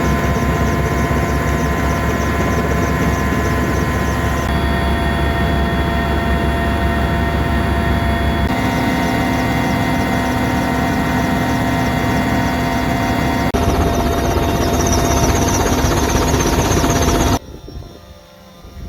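Helicopter engines and rotor running steadily: a loud, even drone with a high whine. The sound shifts abruptly a few times and cuts off suddenly near the end.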